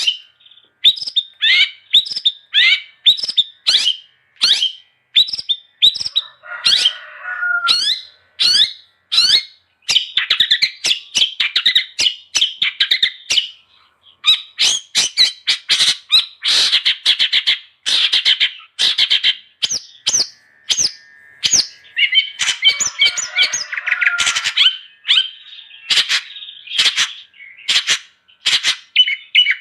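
Long-tailed shrike (cendet) in full, non-stop song: a rapid string of sharp chips, quick trills and squawky notes. Twice, a longer harsh, scratchy chattering phrase.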